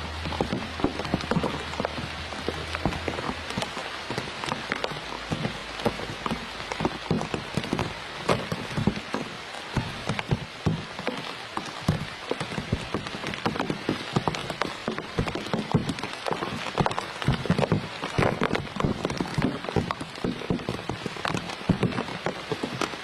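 Rain pattering steadily, a dense irregular spatter of drops, with a low hum that stops about three seconds in.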